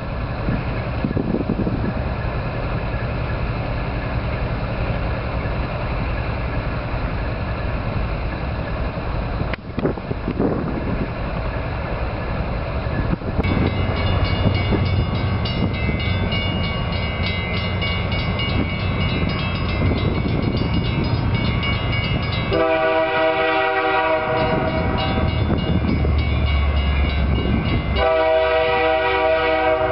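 Diesel freight locomotives running past with a steady low rumble. Later a diesel locomotive horn sounds two long blasts, the second starting about five seconds after the first ends.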